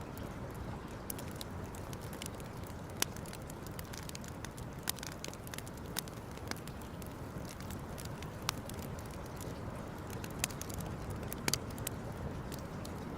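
Wood campfire crackling, with irregular sharp pops and snaps over a steady low rush of burning.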